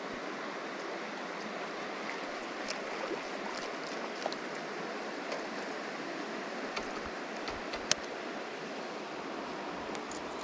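Steady rush of flowing river water, with a few small clicks and one sharper click about eight seconds in.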